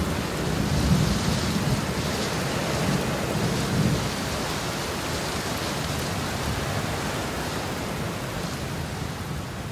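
Steady rain with low thunder, the thunder swelling about a second in and again near four seconds in.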